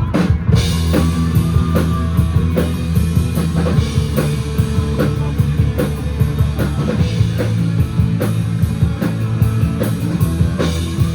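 A live rock band of drum kit, bass and guitars plays an instrumental break with a steady beat. It opens on a hard drum hit.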